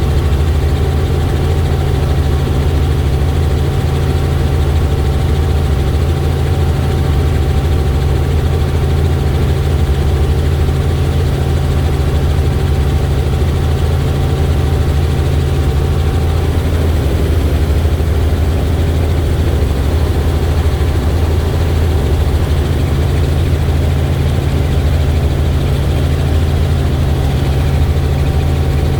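Helicopter rotor and engine running steadily in flight: a constant loud low drone with a faint steady whine above it.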